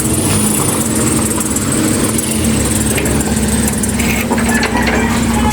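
A small engine running steadily at an even pitch, with a wash of road or motor noise around it.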